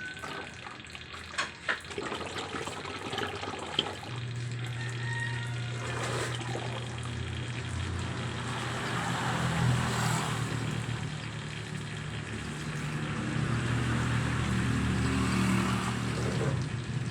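Used engine oil being poured and running through a cloth filter, a continuous liquid pouring and splashing sound that swells and eases, with a few knocks in the first seconds. A low steady hum runs underneath from about four seconds in.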